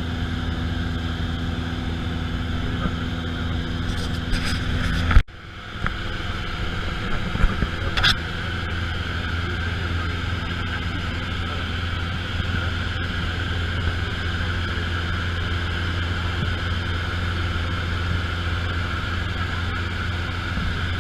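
Steady drone of a light aircraft's engine and propeller, with a low hum. About five seconds in there is a sharp click, after which the sound drops out briefly and builds back; another short click follows a few seconds later.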